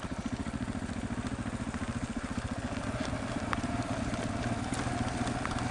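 Motorcycle engine running at low revs with a steady, fast pulsing beat, with a few sharp clicks of stones or gravel.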